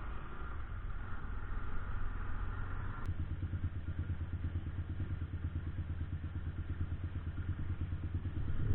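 Motorcycle engine running with a steady, low pulsing exhaust note; about three seconds in the engine note gets stronger.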